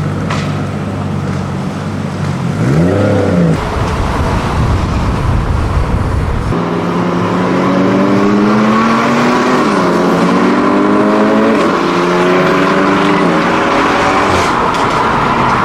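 Car engine idling, then revved once in a quick rise and fall. After an abrupt change, a car accelerates hard, its engine pitch climbing and dropping back at each gear change.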